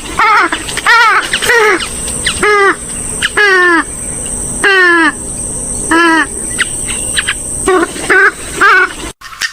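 A rail-family waterbird, a swamphen or moorhen type, calling about a dozen times in a loose series. Each call is harsh and nasal, rising and then dropping in pitch.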